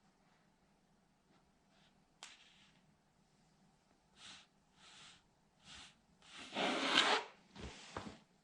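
A toy military truck being crushed underfoot by a sandal. There is a sharp snap about two seconds in, then a series of short crunching scrapes, the longest and loudest near the end.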